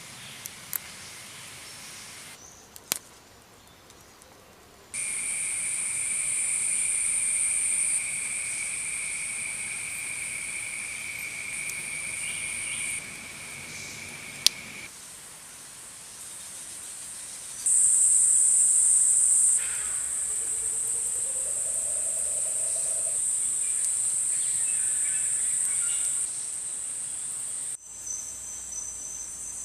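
Insects chirring in a steady, high-pitched shrill that stops and starts abruptly several times, with a lower second tone for part of the time. There are a few faint clicks.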